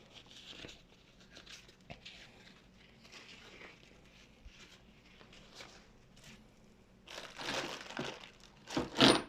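Packaging crinkling and rustling as parts are unpacked from the box, with louder bursts of crinkling near the end.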